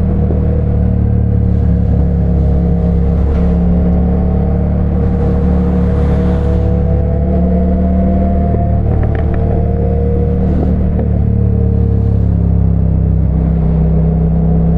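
Motorcycle engine running at a steady cruise, its pitch drifting slightly up and down with small throttle changes, with wind rush over the rider's microphone.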